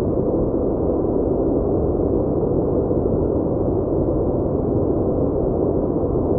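A steady, muffled noise that holds level throughout, with no distinct events.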